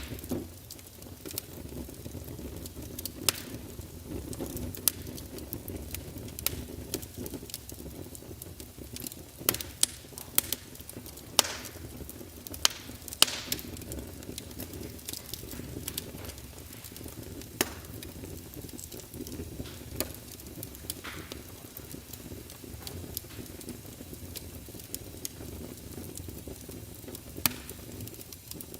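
Fire burning in a fireplace: a steady low rush of flames with irregular sharp crackles and pops.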